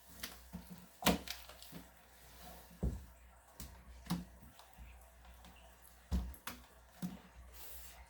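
Slime being squeezed and pressed by hand, making irregular sticky clicks and pops, about five sharper ones spread through.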